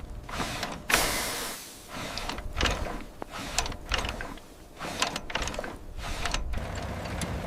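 Irregular knocks and clicks with scraping noise between them: a mechanical clatter of things being handled.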